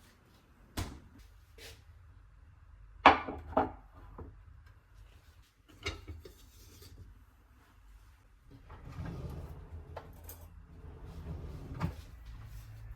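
Kitchen handling noises: scattered light knocks and clicks, a loud double clatter about three seconds in, then softer rustling and clinking through the second half.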